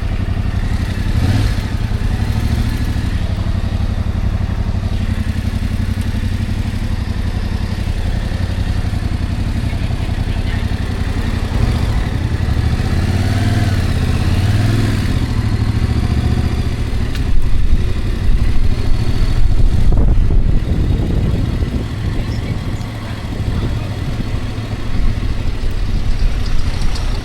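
Engine and road noise of a moving vehicle, running steadily, with the engine note rising and falling about halfway through and a louder stretch a few seconds later.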